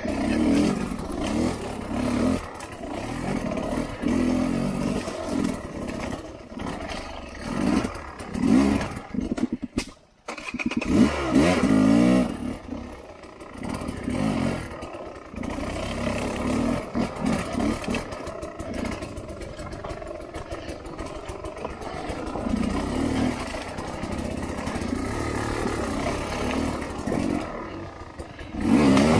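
Sherco 250 SER's two-stroke engine revving in bursts under load on rough ground, its note rising and falling with the throttle. About ten seconds in it drops out for a moment, then comes back in hard. It runs more steadily later on, with a loud rev near the end.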